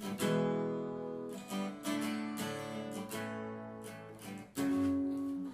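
Acoustic guitar strummed, chords ringing out between strums, with a louder strum near the end.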